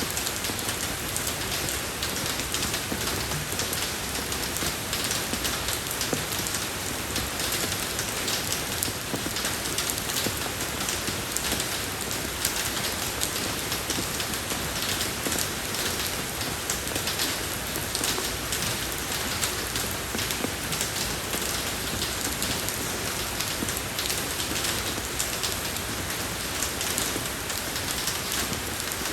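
Steady rain falling on a road surface, a dense even patter of drops.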